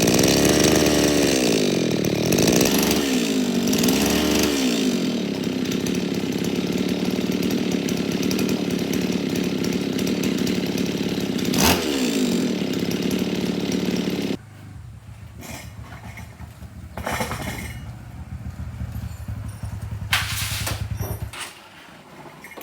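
A motor running loud, its pitch swinging up and down several times in the first few seconds, then holding steady until it stops suddenly about two thirds of the way through. A few lighter knocks and clatter follow.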